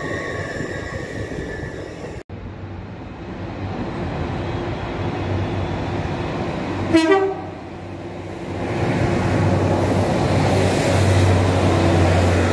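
LNER Azuma train running past with a steady whine, which stops suddenly about two seconds in. Then a short train horn blast sounds about seven seconds in, and a Northern passenger train rumbles in along the platform, with a low hum that grows louder near the end.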